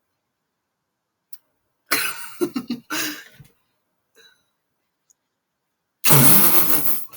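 A person's voice in loud, harsh, distorted bursts: a cluster of short ones about two seconds in, and one longer one about six seconds in.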